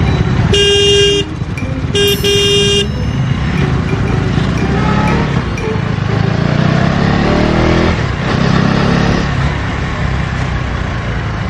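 A KTM Duke 250's single-cylinder engine running under way in traffic, with wind and road noise. A vehicle horn sounds twice near the start, two blasts of under a second each, and the engine note rises partway through as it accelerates.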